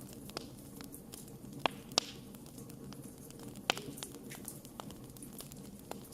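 Wood campfire crackling: scattered sharp pops over a low steady hiss, the loudest a pair about two seconds in and another near four seconds.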